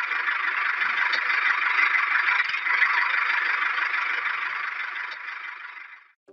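A small motorised DIY toy tractor running, with a steady rattling, scraping noise that fades out near the end.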